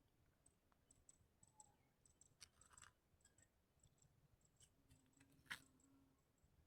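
Near silence broken by faint, scattered short clicks and ticks, with one sharper click about five and a half seconds in.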